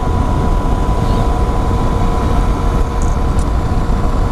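Motorcycle cruising at a steady speed: a constant engine drone with a held tone, under heavy low wind rumble on the microphone.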